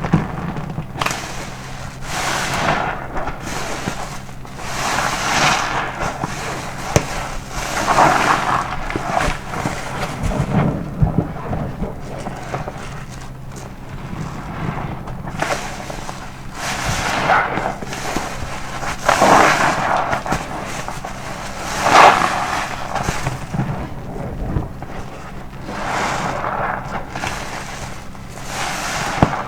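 Soapy car-wash sponge being squeezed again and again, wet squelching with crackling foam, rising and fading every few seconds.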